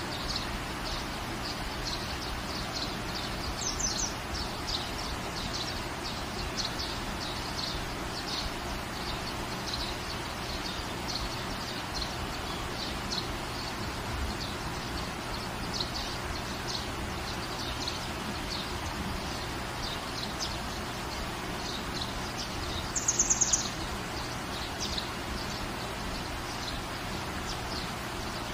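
Steady rain falling in a garden, with birds chirping throughout. About 23 seconds in, a bird gives a louder, quick run of high notes.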